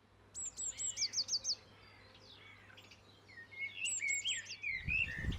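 Small songbird singing two short phrases of quick, thin, high notes sweeping downward. Lower chirps are mixed into the second phrase.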